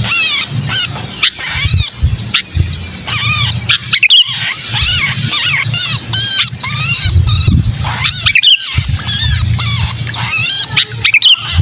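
Sooty-headed bulbul (kutilang) giving a rapid, almost unbroken string of short, arched, whistled and harsh notes: the agitated distress call of a caught or pinned bird ('kejepit'), used as a lure to bring other bulbuls down. A low rumble runs underneath.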